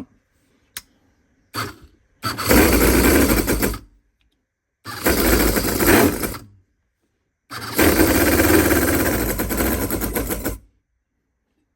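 Cison flathead V8 model engine turning over on its electric starter in three loud bursts, the last about three seconds long, with short pauses between them. A faint click comes just before the first burst.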